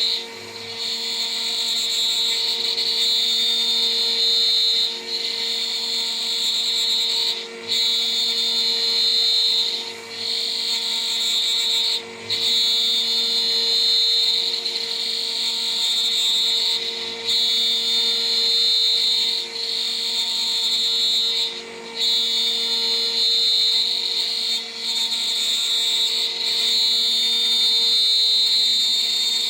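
DIY CNC router's high-speed spindle running a 3 mm three-flute end mill that is milling a part, giving a steady high whine. The sound dips briefly every two to three seconds, as the cut pauses or changes direction.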